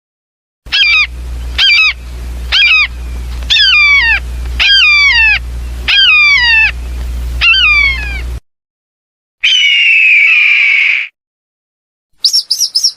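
Hawk calls: a series of about eight short, downward-slurred calls, then one longer falling call, and a quick run of high notes near the end.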